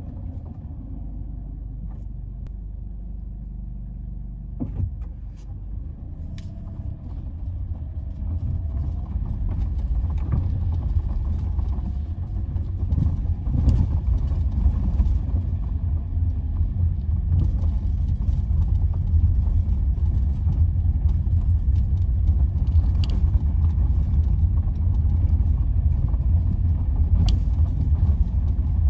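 Steady low road rumble of a car heard from inside the cabin, growing louder about eight seconds in as it picks up speed.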